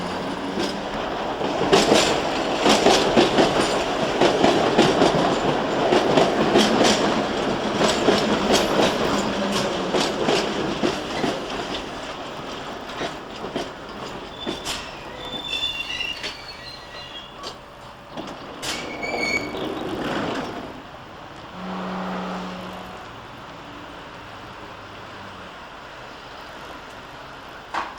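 A train passing through a station, its wheels rumbling and clattering loudly over the rails with many sharp clicks, then fading away. A few short high-pitched wheel squeals come midway.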